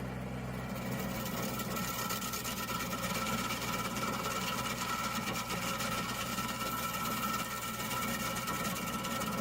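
Engine of a stump-grinding machine running steadily, with a constant whine over a low hum.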